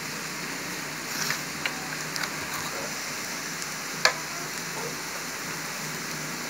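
Vegetable fried rice sizzling steadily in a steel kadhai over a low flame, with a few sharp clicks, the loudest about four seconds in.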